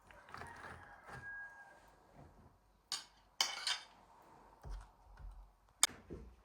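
Scattered knocks and clatters of objects being handled, with three sharp clicks or knocks standing out, at about three seconds in, just after, and near the end.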